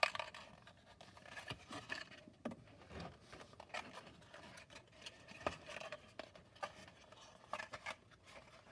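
Parts of a cardboard and plastic toy playset being handled and fitted together by hand: scattered light clicks, taps and scrapes, the sharpest one right at the start and another about five and a half seconds in.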